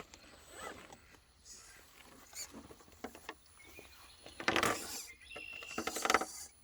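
Scale RC rock crawlers climbing slate: scattered small clicks and scrapes of tires and chassis on rock, with two louder scrabbling bursts about four and a half and six seconds in.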